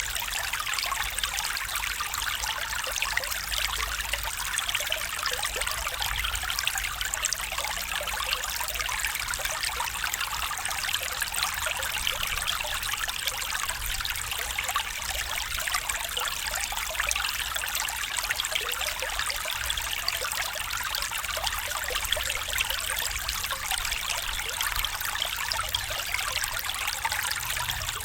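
Small stream trickling and babbling over stones: a steady bright splashing with a faint low rumble beneath.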